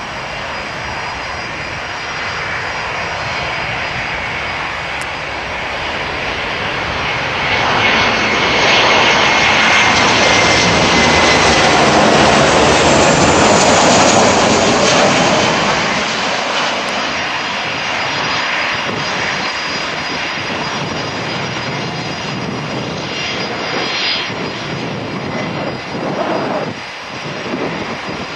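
Jet engines of a Boeing 737-400 (twin CFM56-3 turbofans) passing: the noise swells to a peak about ten seconds in, with a whine that falls slightly in pitch, then eases off.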